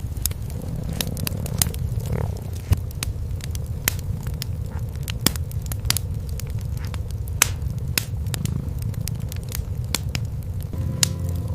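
Wood fire crackling in a fireplace, with sharp irregular pops every half second or so, over a cat's steady low purring.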